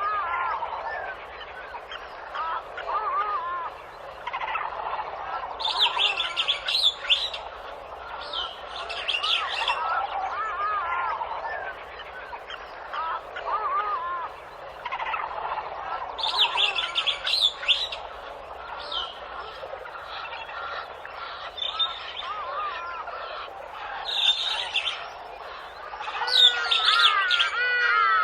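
Many birds chirping and calling at once, a dense chorus of short calls that glide up and down in pitch. It grows louder near the end, when longer swooping calls come in.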